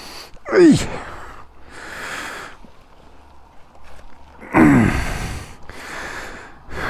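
A man's sighs and heavy breaths: two short grunts falling in pitch, about half a second and four and a half seconds in, with breathy exhales between them.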